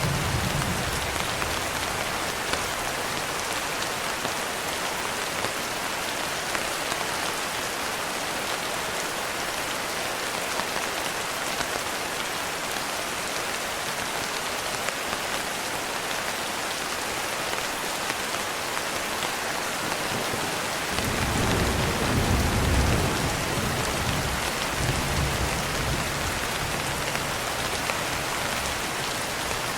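Steady rain falling on a window, an even dense patter throughout. About two-thirds of the way in, a low rumble of distant thunder rises and rolls on for several seconds.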